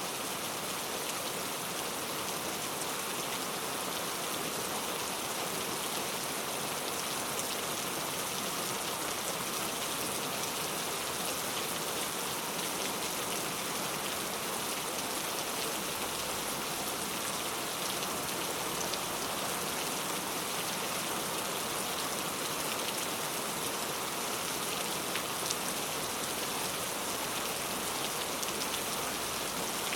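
Steady rain falling, an even hiss with the odd distinct drop.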